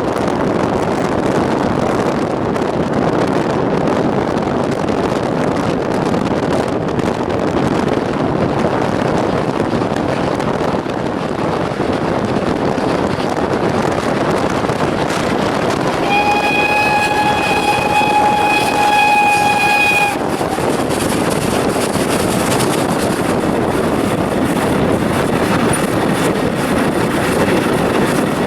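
Steady rushing noise of a moving train, and past the middle one long steam-whistle note from the PKP Ol49 steam locomotive, held for about four seconds and then cut off.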